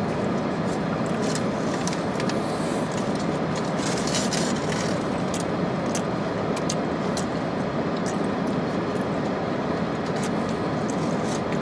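Steady rumble of road and engine noise heard inside a car's cabin, with a few faint small clicks scattered through it.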